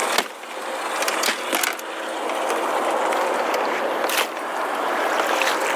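Steady wind rushing over the microphone, with a few sharp knocks and clatters as a hooked crappie is netted and brought into the boat.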